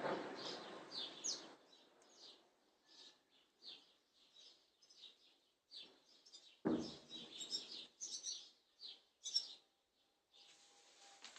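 Small birds chirping repeatedly, short high calls. The rumble of a shell explosion fades over the first second and a half, and a single sudden distant blast comes about two-thirds of the way through.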